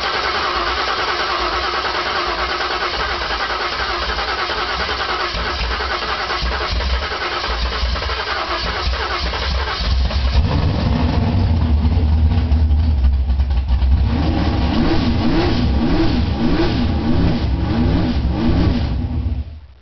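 Carbureted V8 on only its third start, running steadily just after catching. About ten seconds in the revs come up as the throttle is worked by hand at the carburetor, and from about fourteen seconds it is blipped up and down about once a second before the engine is shut off right at the end.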